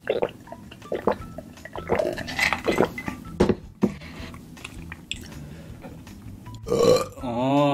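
Close-up eating sounds: chewing and mouth smacks with scattered clicks and clinks of a plate and utensils, and a brief louder vocal sound near the end.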